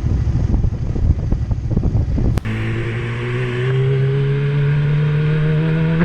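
Riding noise, a low rumble of wind buffeting and engine, then a sudden cut to a motorcycle engine pulling under throttle, its pitch climbing slowly and then faster near the end as the bike accelerates.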